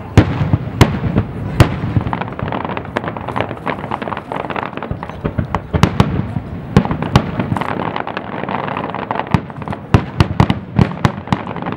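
Aerial fireworks shells bursting in quick succession: many sharp bangs, loudest near the start and in a cluster near the end, over continuous crackling.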